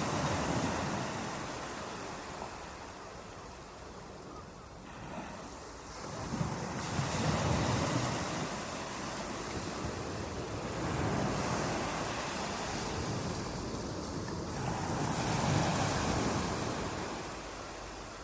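Ocean surf: waves washing in and drawing back, the rushing swelling and fading about every four seconds.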